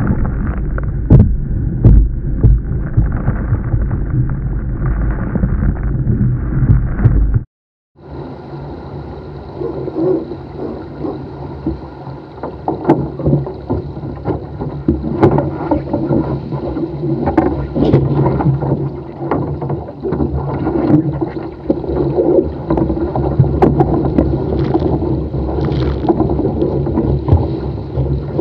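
Wind buffeting the microphone and water splashing and slapping against a small sailboat's hull as it sails fast through choppy swells. A brief dropout at a cut about seven and a half seconds in, after which the splashing and spray go on with less low wind rumble.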